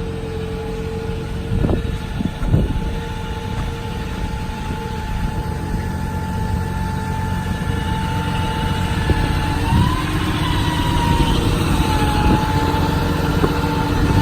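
Cummins 6.7 turbo diesel of a Ram 5500 bucket truck running with the PTO engaged, its hydraulic pump giving a steady whine as the boom is lowered; the whine shifts in pitch about ten seconds in. Two short thumps about two seconds in.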